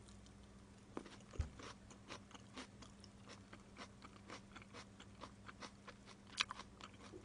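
Close-miked chewing of fried food, faint crunchy, wet clicks in an irregular run, with a low thump about a second and a half in and a few sharper crunches near the end. A faint steady electrical hum lies underneath.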